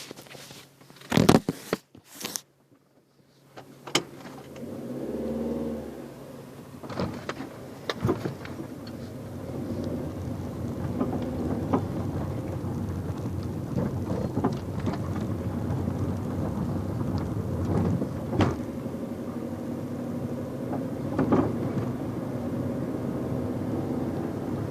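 Fiat Stilo 1.6 16v running, a steady drone with irregular clicks and knocks over it: the unexplained noise from the front of the car that the owner is trying to identify. A few loud knocks come in the first couple of seconds before the running sound builds.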